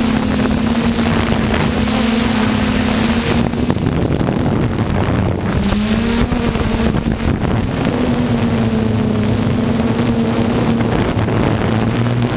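A pulling truck's engine running loud and steady. Its pitch dips briefly about halfway through, then comes back up and holds.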